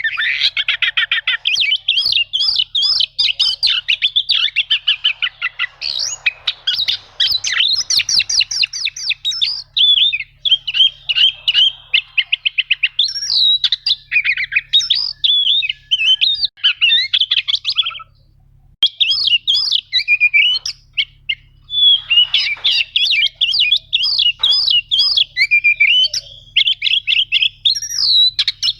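Oriental magpie-robin (kacer) singing a long, fast run of chattering trills and whistled notes, with a short pause about eighteen seconds in.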